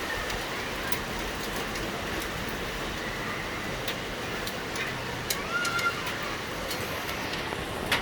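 Steady hiss of falling rain, with scattered sharp ticks of drops striking nearby surfaces.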